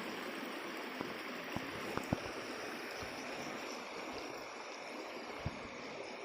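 Steady rushing of water, with a few small sharp splashes or knocks scattered through it, the loudest about two seconds in.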